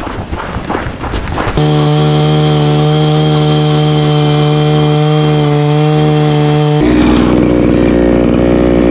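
Power ice auger drilling a hole through lake ice: it starts abruptly about a second and a half in and runs at a steady pitch, then turns rougher and lower about seven seconds in.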